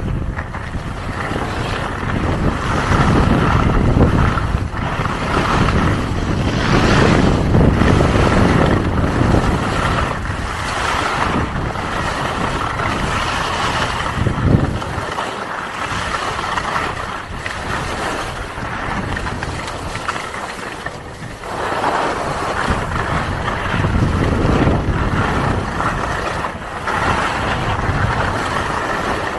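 Strong gusting wind buffeting the microphone: a loud rushing noise that swells and eases with the gusts.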